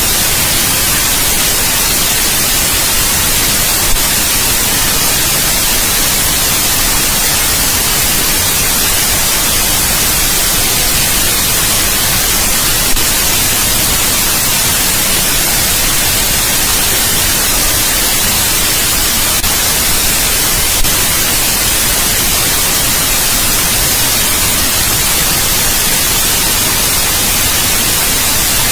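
Steady white noise: an even, loud hiss spread across all pitches, brightest in the treble, with no tones or rhythm.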